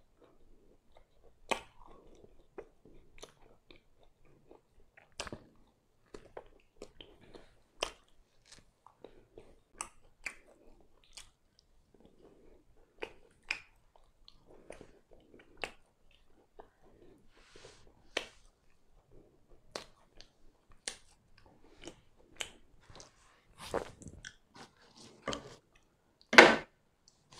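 Close-miked chewing of chicken-and-cheese pan pizza: wet mouth clicks and smacks about once a second, with a much louder burst of noise near the end.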